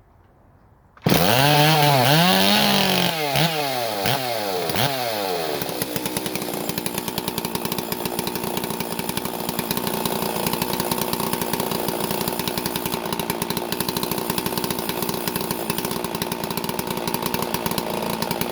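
Stihl 046 two-stroke chainsaw starting from cold about a second in, revving up and down for a few seconds, then settling into a steady idle.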